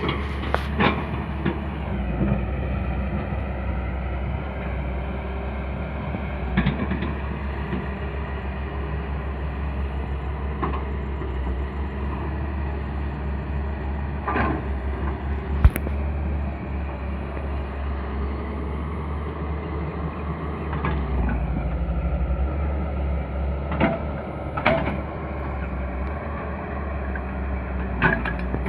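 An excavator's diesel engine running steadily under work, with occasional sharp metallic clanks from the machine, several of them spread through the stretch and a loud one about halfway.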